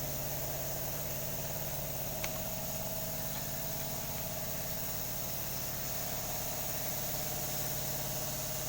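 An engine running steadily at idle, a constant hum with one short click about two seconds in.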